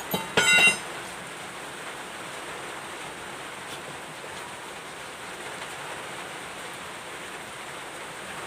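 Steady rain falling, an even hiss throughout. About half a second in there is a brief loud knock with a ringing tone.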